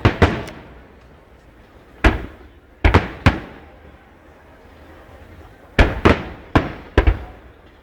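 Fireworks exploding: about nine sharp bangs, each trailing off in a short echo. There is one bang right at the start, a group of three or four about two to three seconds in, and another group of four near the end.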